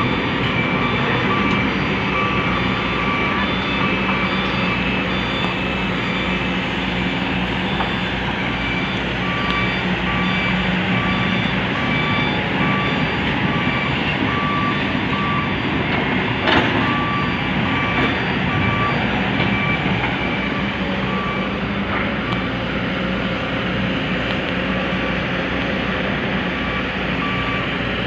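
A reversing alarm beeping over and over above a running diesel truck engine, with one sharp knock about sixteen seconds in.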